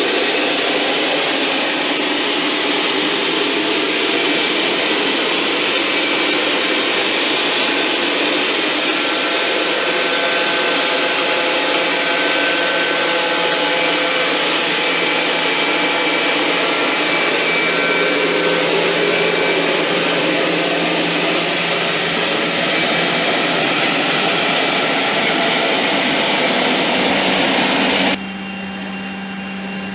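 Boeing 737-300's CFM56 jet engines running, a loud steady jet noise with thin high whines over it. The sound drops suddenly about two seconds before the end, leaving a steady low hum.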